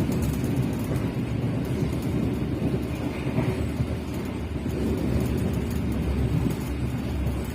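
Low, steady rumble of a moving passenger train heard from inside an economy coach: wheels on the rails and the coach running along the track.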